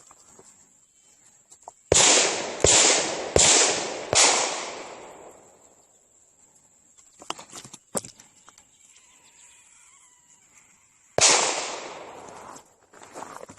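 Gunshots: four sharp bangs in quick succession about two seconds in, each trailing off in a long echo, and one more bang with a long echo near the end.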